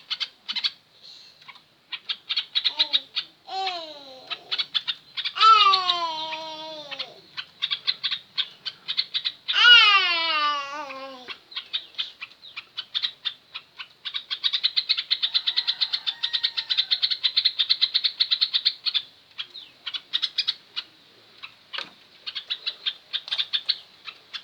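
Yellow-vented bulbul (trucukan) chattering in quick runs of short notes, with a dense stretch from about 14 to 19 seconds. Two louder, long falling cries stand out, at about 5 and 10 seconds in.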